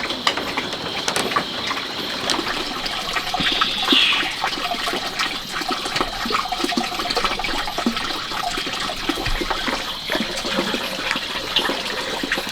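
Steady rushing, splashing water with many small clicks and taps through it.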